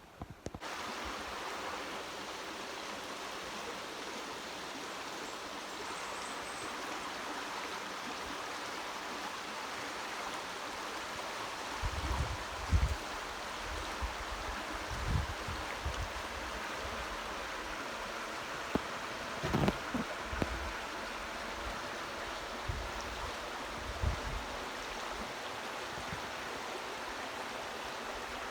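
A high, fast-flowing river rushing steadily, swollen by recent hurricane rain, with a few brief low bumps now and then.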